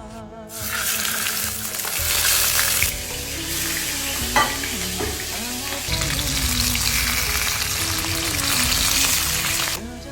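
Pieces of hairtail sizzling as they pan-fry in hot oil, starting about half a second in and stopping abruptly near the end, with one sharp tap about four seconds in.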